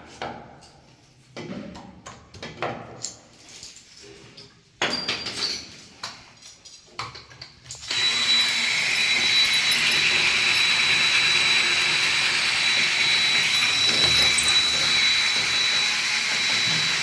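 A few scattered knocks and clanks, then about halfway through a small motor starts and runs steadily, a loud even whir with a thin high whine.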